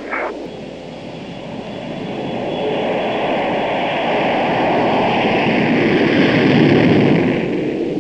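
Aircraft noise swelling steadily louder over several seconds, with a faint high steady whine in the first half.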